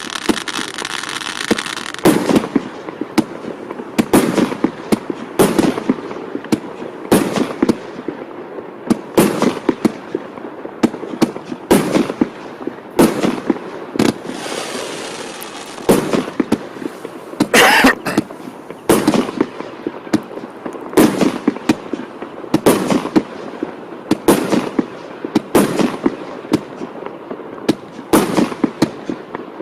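Gromykhalo A7607 consumer firework going off: a hiss at first, then a long run of loud bangs at a little more than one a second, with another spell of hissing about halfway through.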